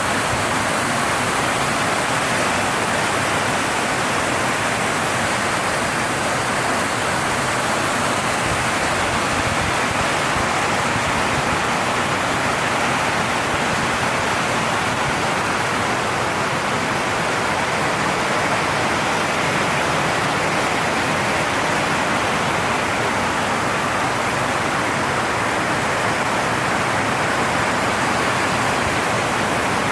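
Heavy rain drumming steadily on a tin roof, a dense unbroken hiss-like roar.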